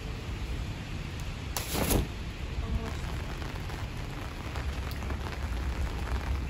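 Steady rain falling on wet paving and puddles, with a steady low rumble underneath. About two seconds in comes one brief, loud rush of noise, the loudest moment.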